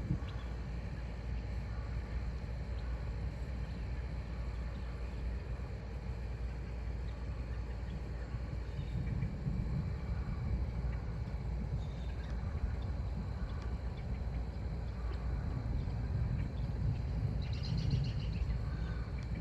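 Outdoor ambience under a storm: a steady low rumble of wind on the microphone, swelling twice, with faint bird chirps and a short bird call near the end.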